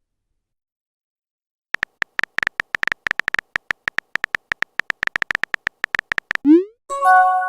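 Phone keyboard typing clicks: rapid, irregular taps starting about two seconds in and running for about four seconds. Then a rising swoosh and a short chime near the end, the message-sent and message-received sounds of a texting app.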